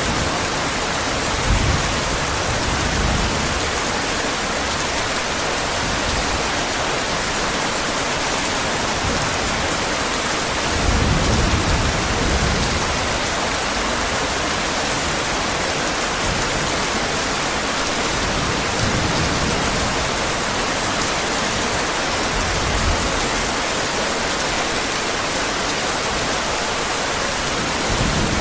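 Heavy rain falling in a steady, even hiss, with low rumbles of distant thunder now and then; the strongest comes about eleven seconds in.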